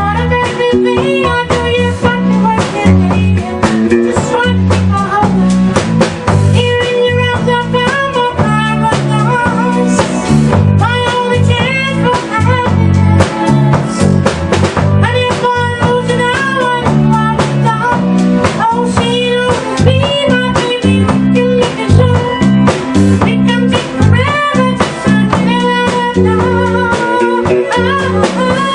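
A band plays continuously, with a drum kit, bass line and guitar keeping a steady beat.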